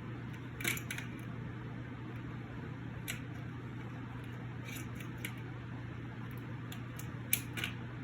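A few short, sharp clicks and snips, scattered and irregular, as the cockatoo works at a curtain with its beak, over a steady low room hum.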